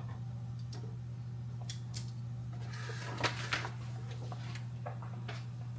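Light clicks and taps of a cooking utensil against a pot as chicken pieces are added to a tomato-and-wine sauce, with a short cluster of louder clatter about three seconds in. A steady low hum runs underneath.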